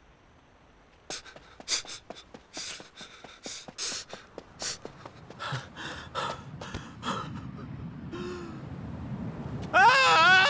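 A person's voice gasping and panting in short, sharp breaths, then a loud wavering wail starting near the end.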